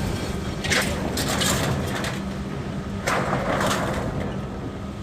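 Strong wind buffeting the phone's microphone, with harsh noisy bursts about a second in and again around three seconds in as gusts hit and loose things come undone.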